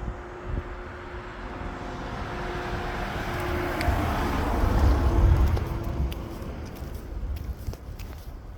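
A vehicle passing by: the noise of its engine and tyres grows steadily, is loudest about five seconds in, then fades away.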